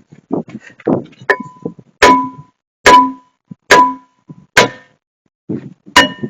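A piece of metal being struck about six times, each a sharp clang that rings briefly, roughly one a second with a short pause before the last.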